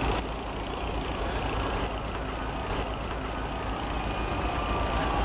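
Heavy vehicle engines running steadily, a low rumble under general outdoor noise.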